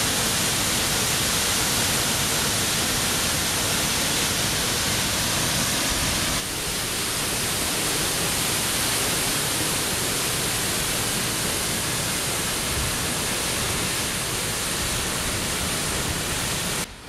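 Steady rushing roar of the Falls of Glomach, a waterfall of about 113 m dropping into a rocky gorge, with a slight step down in level about six seconds in.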